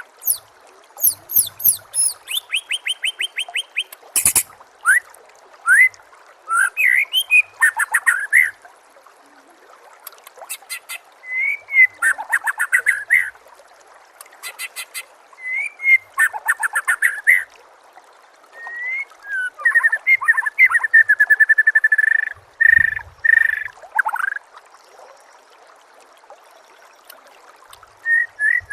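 White-rumped shama (murai batu) singing a varied song full of borrowed phrases (isian): short bursts of rising whistles and fast repeated-note trills, separated by brief pauses, with a longer pause near the end. A faint steady hiss lies under the song.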